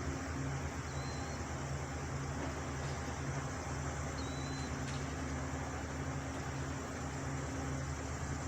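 Steady low engine drone that holds unchanged throughout, with two faint short high squeaks.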